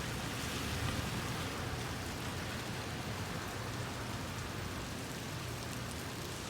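Steady rain falling during a thunderstorm, an even hiss with no sharp claps.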